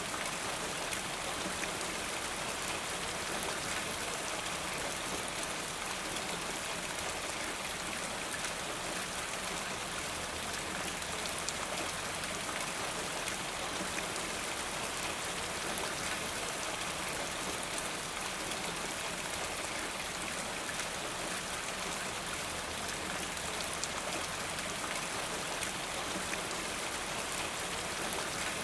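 Steady rainfall, an even hiss of rain with the patter of single drops through it.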